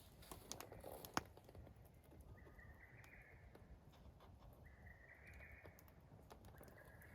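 Faint frog calls: a steady, roughly one-second call repeated about every two seconds, a mating chorus of the season. A few light clicks near the start, with one sharp click about a second in.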